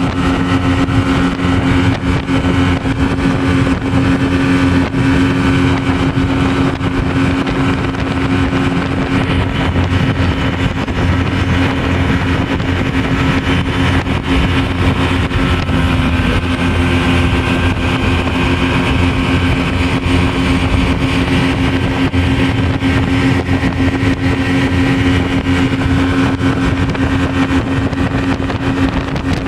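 Speedboat engine running steadily at speed, holding one constant pitch under an even rushing noise.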